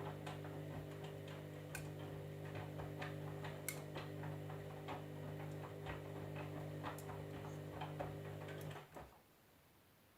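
Candy EcoMix washing machine turning its drum: a steady motor hum with many light irregular clicks as the load tumbles. The motor stops about nine seconds in.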